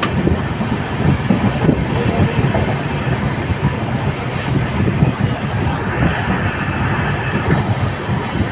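Passenger express train running on the track, a steady rumble with rail noise.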